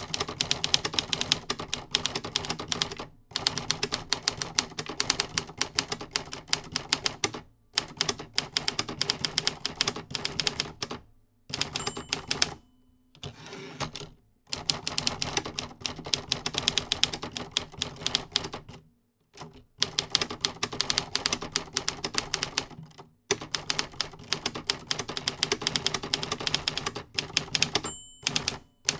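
Typewriter typing: rapid key strikes in runs of a few seconds each, separated by short pauses.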